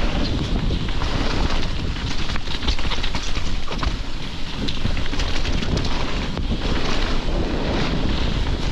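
Wind buffeting the microphone while riding a mountain bike down a trail, with the tyres on dirt and many short rattles and knocks from the bike over rough ground.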